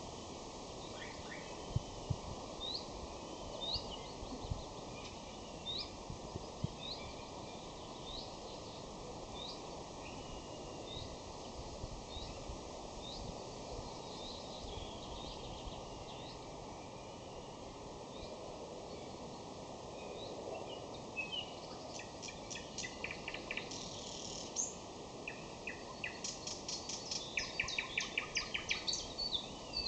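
Nightingale singing: a long series of short, rising whistled notes, then near the end loud, very fast clicking rattles.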